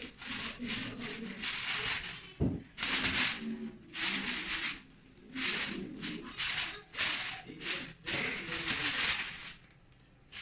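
Plastic bag rustling and crinkling in repeated bursts of about a second each as kittens tug at it and pounce on it, with a thump about two and a half seconds in.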